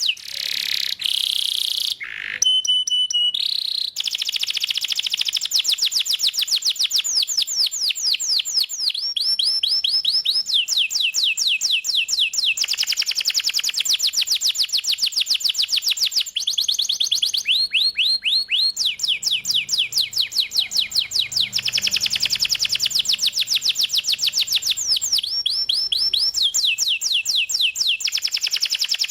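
Domestic canary singing an unbroken song of fast trills, each a run of rapidly repeated notes, changing to a new trill every second or two.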